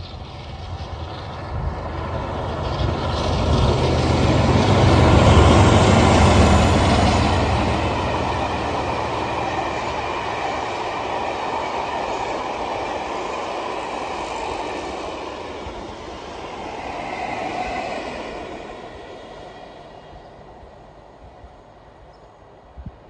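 Steam-hauled passenger train with a diesel locomotive at the rear passing on a main line. The rumble and clatter of the train build to a peak about five seconds in and hold as the coaches run by. There is a smaller second swell near the end, then the sound fades away.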